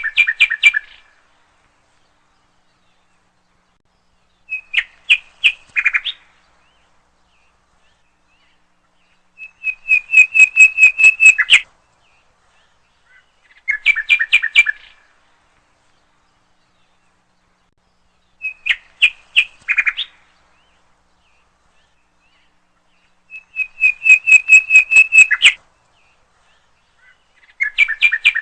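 A songbird singing short phrases of rapid repeated notes, one phrase every four to five seconds with silence between. A longer and a shorter phrase alternate with the same shape each time.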